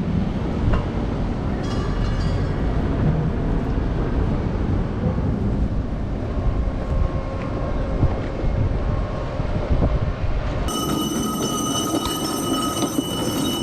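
Steady low rumble of wind buffeting the microphone over a boat's engine. About three-quarters of the way through, an abrupt change brings in a steady high whine made of several tones.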